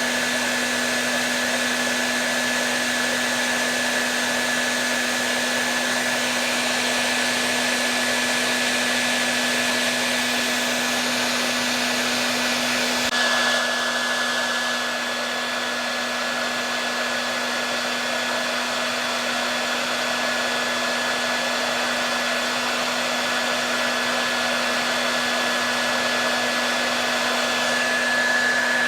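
Hair dryer running continuously: a steady rush of blowing air with a constant low hum and a thin high motor whine, its tone shifting slightly about halfway through.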